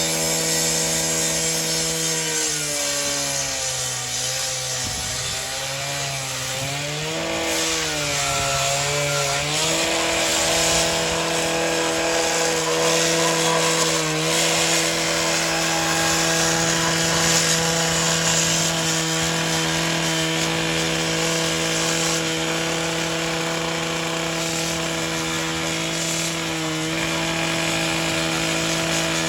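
Gasoline concrete saw engine running fast. Its speed dips and wavers for several seconds, then holds at a steady, even pitch.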